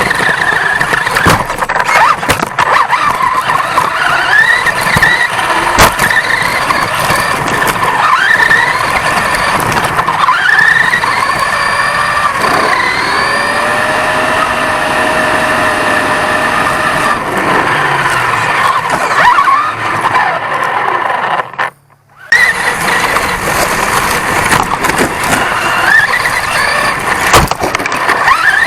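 1/10-scale off-road RC truck heard from a camera mounted on the truck: its motor and drivetrain whine rises and falls with the throttle, over a rough rattle and frequent knocks from bumps. The sound cuts out briefly about 22 seconds in.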